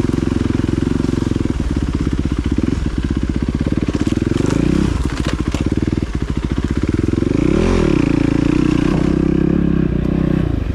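Dirt bike engine running while being ridden, its revs rising and falling with the throttle. The revs dip and climb back about halfway through, then rise and fall quickly about two-thirds of the way in.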